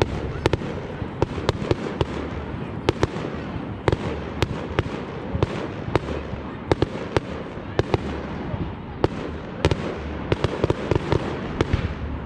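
Fireworks display: a fast, irregular run of sharp bangs, several a second, over a continuous noisy background.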